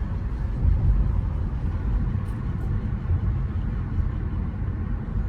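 Steady low road and running rumble of a Honda HR-V driving along a road, heard from inside the car.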